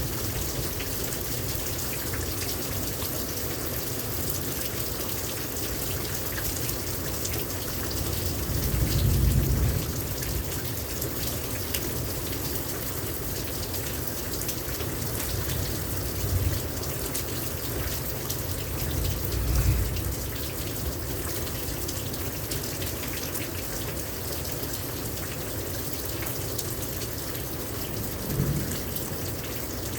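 Heavy rain pouring steadily. A few short low rumbles rise over it, the loudest about nine seconds in.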